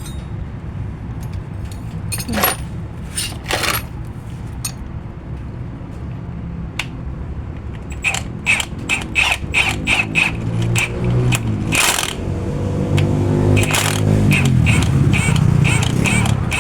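Metal tools clinking and tapping on steel suspension parts, with short ringing strikes about three a second for a few seconds midway, over a steady low engine rumble that swells near the end.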